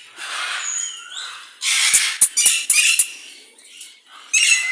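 Green-winged macaws squawking harshly in several loud bouts, with a few sharp knocks among the calls about two seconds in.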